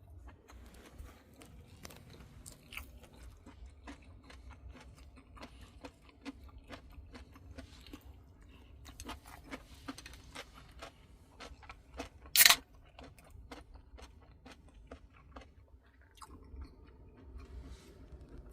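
Chewing with crisp crunching: many small, irregular crunches over a low steady hum, with one loud sharp sound about twelve seconds in.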